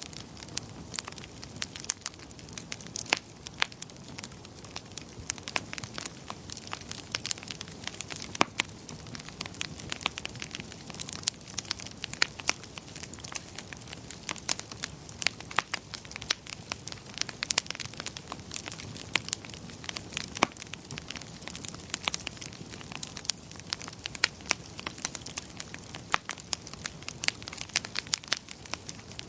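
Wood fire crackling in a fireplace: many irregular sharp pops and snaps over a soft steady hiss.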